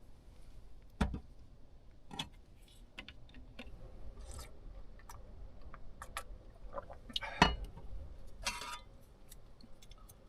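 Objects being handled at close range: scattered small clicks and rustles, with two sharper knocks, one about a second in and one past the middle.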